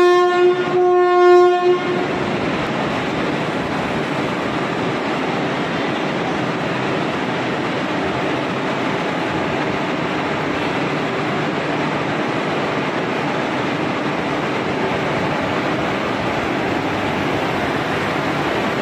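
Indian Railways electric locomotive sounding two blasts on its horn within the first two seconds, then a steady noise with some clickety-clack as the train pulls out and rolls past close by.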